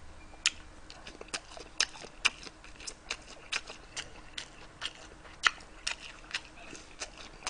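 Close-miked chewing of gimbap wrapped in pickled radish: short wet mouth clicks and smacks, irregular, about two a second.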